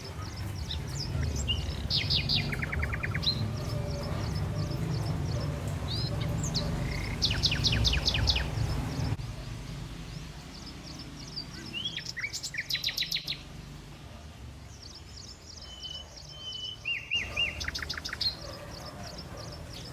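Songbirds singing outdoors: short whistled phrases that break into a fast trill, repeated four times about five seconds apart, with a thinner high chirping joining in near the end. A low rumble runs underneath for the first half and stops suddenly about nine seconds in.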